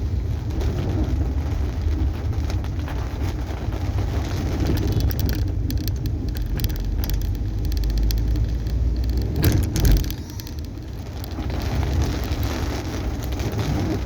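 Car driving in rain, heard from inside the cabin: a steady low road and engine rumble with rain hiss on the car, swelling louder about nine and a half seconds in.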